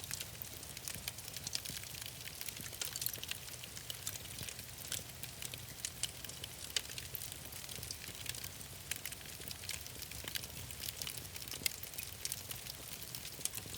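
Wood fire crackling, with frequent small irregular pops over a steady low rumble.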